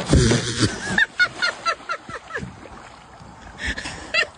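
An animal giving a rapid run of short calls, each dropping in pitch, about six or seven a second, in two bouts, after a loud burst of noise at the start.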